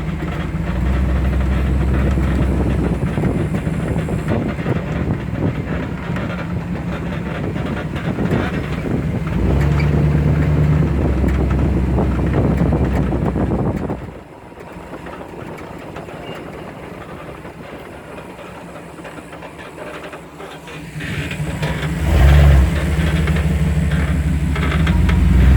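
Two-wheel-drive Chevy pickup's engine pulling under throttle through mud. It drops off to quieter running about halfway through, then picks up and pulls hard again near the end.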